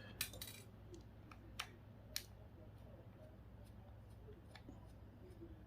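Faint clicks and ticks of small plastic and metal parts being handled while a GPS unit is taken apart: a short cluster of clicks near the start, then two single sharp clicks, over a low steady hum.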